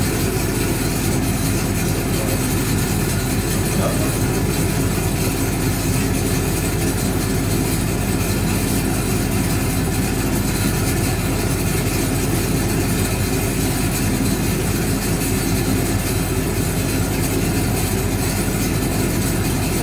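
1965 English Electric Liberator washing machine running with a steady, unbroken mechanical drone and a strong low hum.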